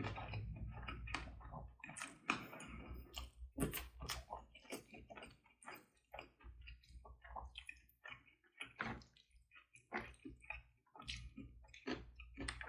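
Plastic takeout food containers and packaging being handled: a string of irregular clicks, taps and crinkles, with a denser rustle about two seconds in.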